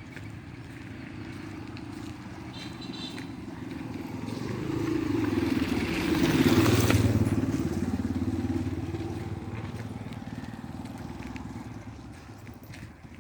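A motor vehicle drives past with its engine running, growing louder to a peak about seven seconds in, then fading away as its pitch drops.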